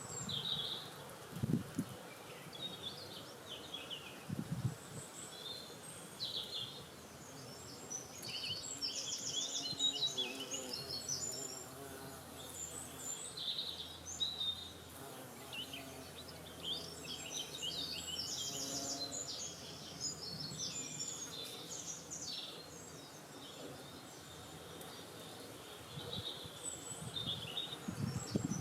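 Several songbirds chirping and trilling over a steady outdoor background, with a few brief low rumbles of wind on the microphone.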